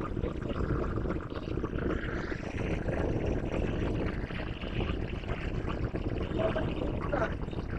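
Diesel locomotive idling: a steady low rumble.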